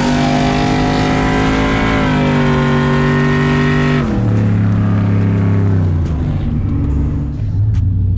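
Pickup truck engine under hard acceleration. Its pitch climbs, drops sharply at a gear change about four seconds in, then falls again as it lets off.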